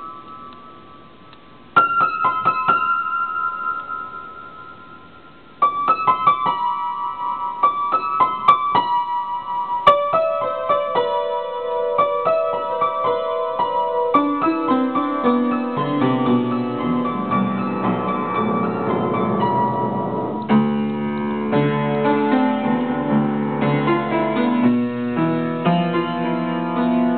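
Solo piano playing: a few sparse high notes and chords left to ring and fade early on, then fuller, busier playing spreading down into the middle and bass register from about halfway through.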